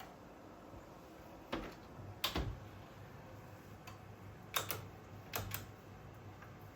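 A handful of light clicks and knocks, several in quick pairs, over a steady low hum.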